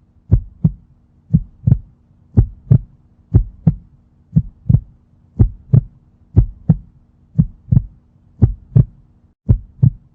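Heartbeat sound effect: paired low thumps, about one beat a second, over a faint steady hum.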